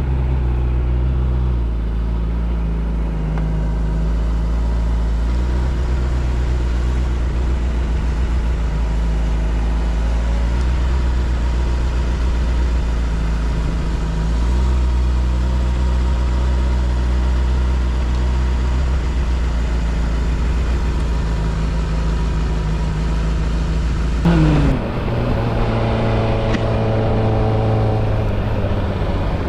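Motorcycle engine running steadily, its pitch shifting a few times, with a quick drop in pitch about 24 seconds in.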